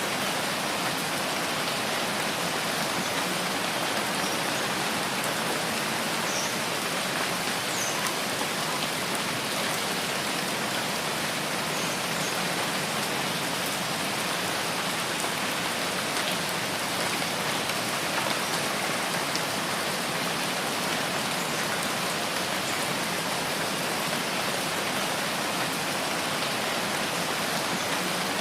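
Steady rain falling, a constant even hiss of many drops with a few faint individual drop ticks.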